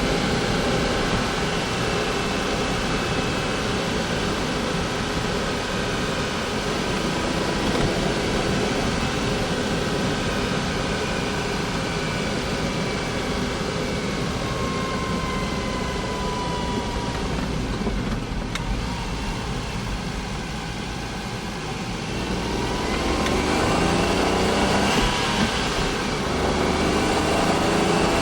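Honda S660's small turbocharged three-cylinder engine running steadily, its pitch rising and its level growing from about 22 seconds in.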